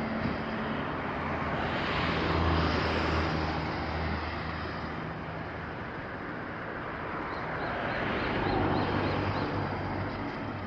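Distant engine noise from passing traffic, a steady rumble with a low hum that swells twice and fades.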